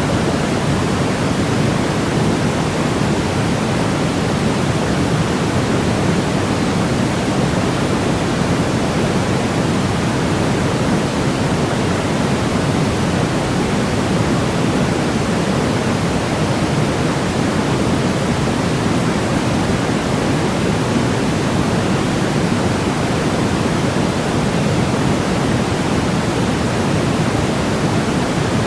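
Continuous generated white noise for baby sleep: a steady, unchanging, deep hiss with more weight in the low end than the high, like pink noise.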